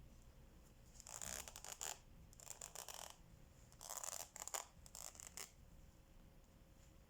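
Diamond painting supplies being handled: four short bursts of scraping and rustling, with small clicks in them, over a few seconds.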